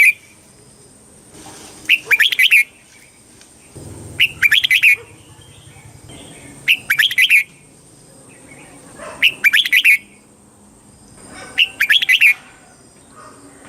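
Red-whiskered bulbul singing: a short, quick warbled phrase repeated about every two and a half seconds, five times.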